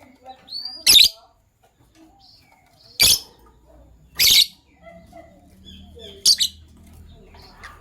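Pet lovebirds (sky blue and green opaline) chirping: four loud, short, shrill calls a second or two apart, with quieter chattering chirps between them.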